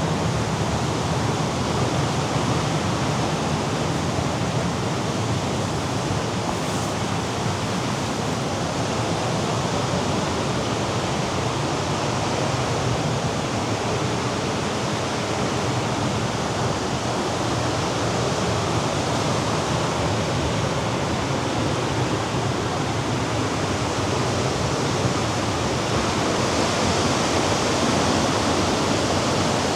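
Steady roar of Mediterranean surf below the cliffs mixed with wind, a continuous rushing noise that grows a little brighter near the end.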